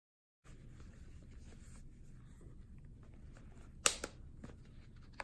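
Leather notebook covers being handled: faint rustling and light taps, with two sharp clicks close together about four seconds in.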